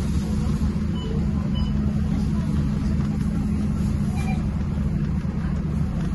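Scania K230UB bus engine running at a steady pitch, a continuous low drone with a steady hum near the bottom.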